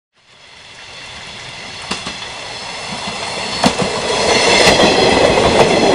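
Electric train running along the track, fading in and growing steadily louder as it approaches, with two sharp clicks of the wheels over rail joints.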